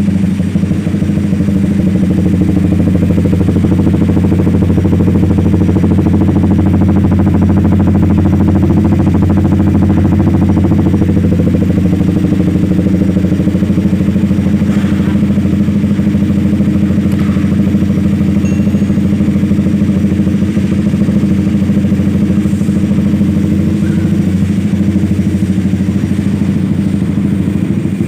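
Honda CBR150R's single-cylinder engine idling steadily through an R9 GP Series stainless aftermarket exhaust, a deep, even exhaust note that holds the same pitch throughout.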